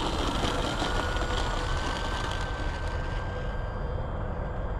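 Electric brushless motor and propeller of a foam RC Cessna 182 model plane running at takeoff power: a steady whine that rises slightly in pitch over the first two seconds and then holds, over a rushing noise.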